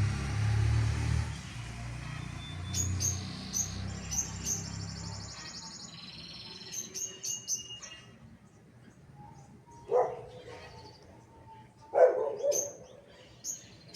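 Small birds chirping in short, high calls scattered through, with a low rumble for the first five seconds or so and two short, louder sounds about ten and twelve seconds in.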